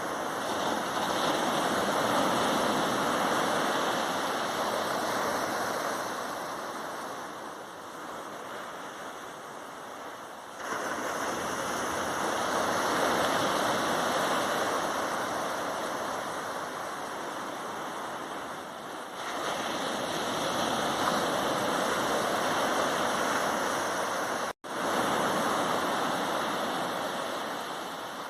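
Sea waves breaking on a sandy beach, a continuous rush of surf that swells and eases over several seconds. It jumps louder abruptly twice and cuts out for a split second about 25 seconds in.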